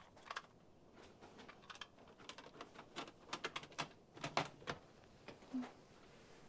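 Irregular light clicks and knocks of small objects being picked up, shifted and set down while rummaging, thickest in the middle, with a brief low blip near the end.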